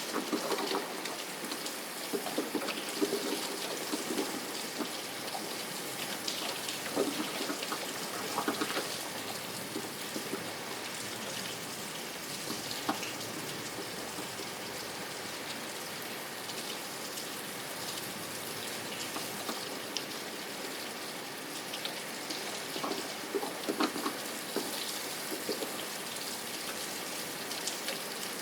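Steady rain falling, with scattered louder drops and patters now and then.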